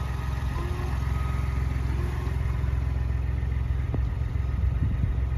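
Ford Bronco's engine idling, a steady low rumble, with a few light ticks near the end.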